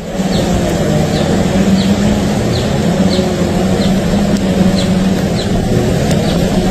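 A steady low mechanical drone with short high chirps recurring irregularly, roughly every half second to second.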